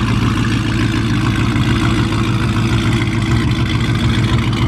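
Car engine running at a steady idle close by, a loud, even low rumble with no revving.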